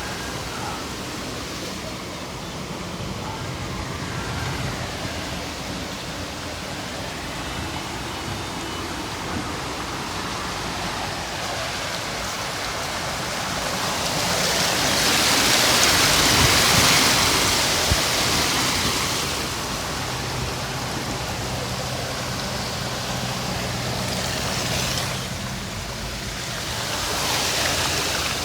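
Heavy rain pouring steadily, with a louder rushing hiss that swells and fades about halfway through and again near the end.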